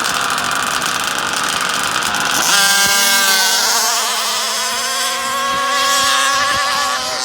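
Small two-stroke gas engine of a large-scale RC car running at high revs. About two and a half seconds in, it settles into a steady high-pitched whine that holds for several seconds.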